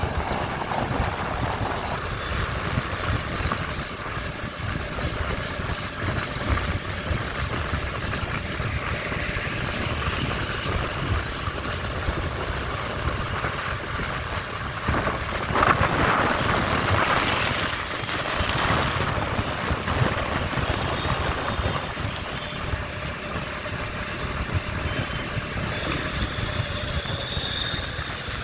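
Wind buffeting the microphone of a camera riding along on a bike, over a steady low road rumble, with a louder rushing gust about halfway through.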